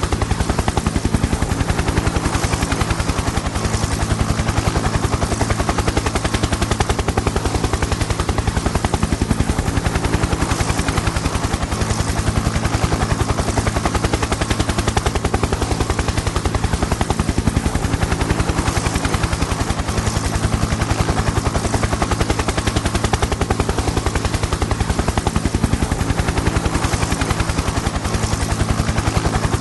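Helicopter in flight: rotor blades chopping in a fast, even rhythm over a steady engine drone.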